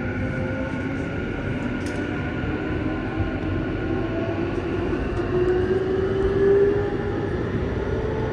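Tokyu 9020 series electric train running, heard from inside the car: a steady rumble of wheels on rail, with traction motor and Mitsubishi full-SiC MOSFET VVVF inverter tones slowly gliding in pitch, one rising over the second half.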